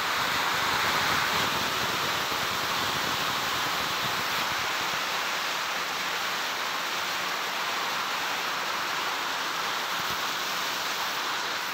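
Heavy rain mixed with hail pelting the ground, a steady dense hiss.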